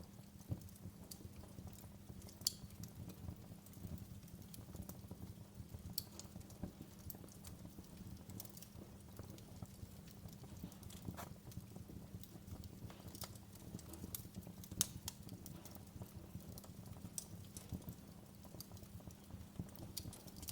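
Wood fire crackling in a fireplace: irregular sharp pops and snaps over a low steady rumble, the loudest pops about 2.5 and 15 seconds in.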